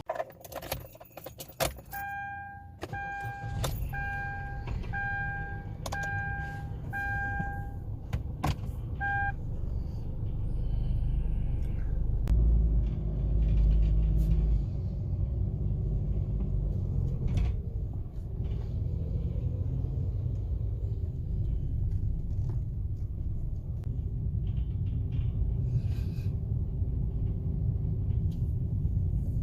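Clicks and jangling, then a car's electronic warning chime beeping about once a second, about seven times, before it stops. Under it and after it, a steady low rumble that swells for a couple of seconds near the middle.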